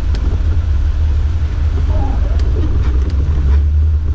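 Steady low rumble of a 4x4's engine and tyres, heard from inside the cab while driving through about eight inches of snow.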